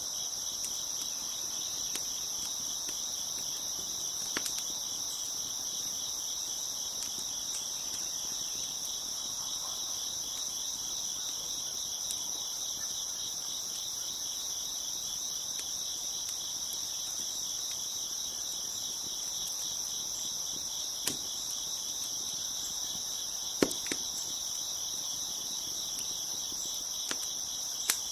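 Crickets chirping in a steady, continuous chorus, with a few sharp pops from a crackling fire scattered through it, the loudest about two-thirds of the way in.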